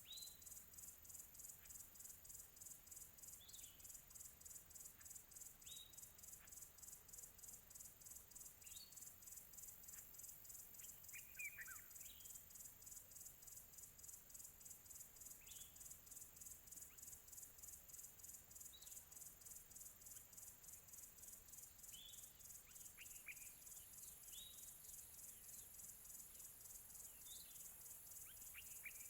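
Faint outdoor ambience: a steady, rapidly pulsing high chirring of insects such as crickets, with short, downward-sliding bird chirps every two to three seconds.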